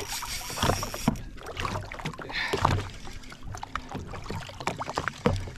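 Water slapping and sloshing against a drifting jet ski's hull, with irregular knocks and low thuds. A hiss in the high end drops away about a second in.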